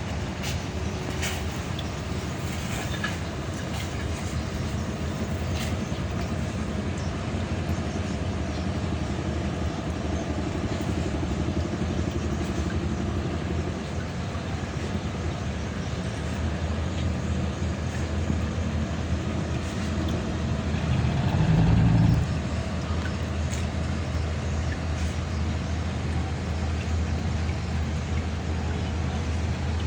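Diesel engine of a wooden cargo boat running steadily with a low hum, swelling into a brief louder low rumble about two-thirds of the way in.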